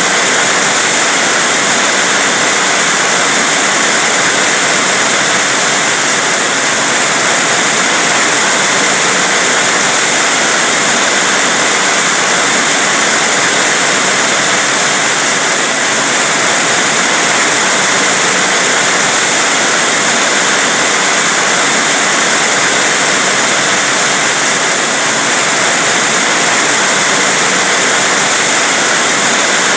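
Heavy rain falling, a loud, dense and unbroken hiss with no separate drops or thunder.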